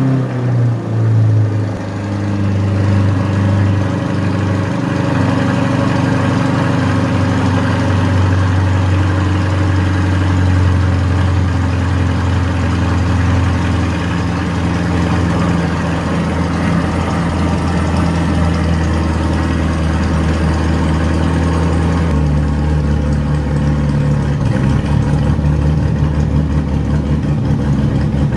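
Chevrolet Corvette C8's V8 through a custom exhaust, settling from a start-up flare in the first couple of seconds into a steady, loud idle. About 22 seconds in, the idle note changes and settles lower.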